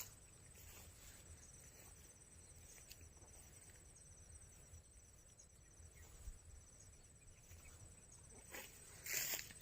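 Near silence, with faint, steady high-pitched insect chirring in finely pulsed rhythm, and a brief noise near the end.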